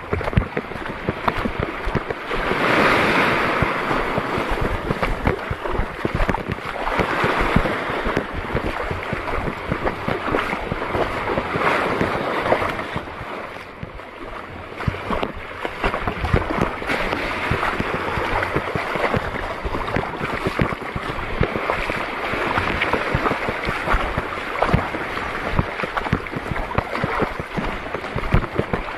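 Shallow sea water washing and sloshing in slow swells every few seconds, with wind buffeting the microphone.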